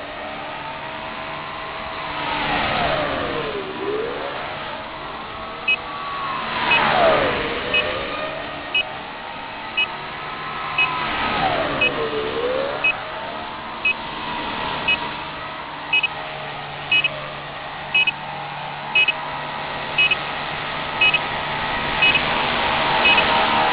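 Small electric RC helicopter (Align T-Rex 250 SE flybarless), its brushless motor and rotor whining and dipping and rising in pitch three times as it manoeuvres. From about six seconds in, a short high electronic beep sounds about once a second.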